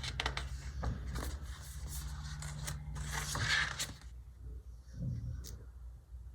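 Paper and sticker sheets being handled: rustling and scraping with sharp little clicks, busiest for about four seconds and then dying down to a few soft taps.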